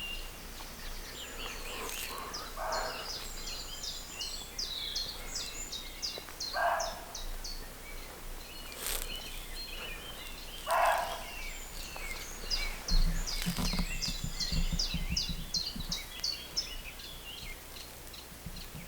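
Woodland songbirds singing in long runs of quick notes, while a deer barks three times, each bark short and harsh, about four seconds apart. A brief low rumble comes about two-thirds of the way through.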